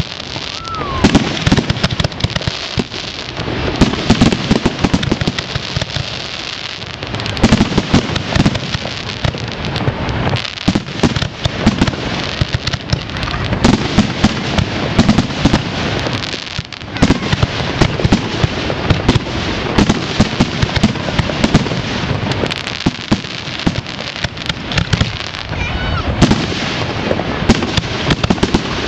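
Aerial firework shells bursting one after another: many sharp bangs in quick succession with no real pause, some loud peaks standing out above a continuous crackle of smaller reports.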